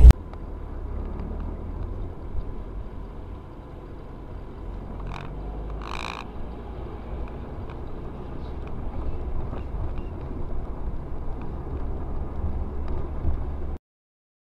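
Low steady rumble of a car on the road, with two short higher-pitched tones about five and six seconds in; it cuts off suddenly near the end.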